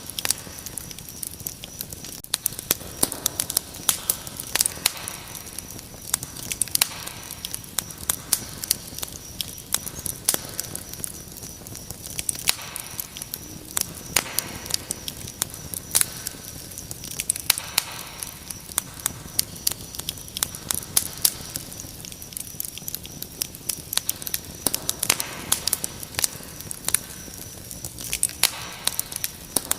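Wood fire crackling and popping in a fireplace, with many irregular sharp snaps, over crickets chirping in a steady high trill.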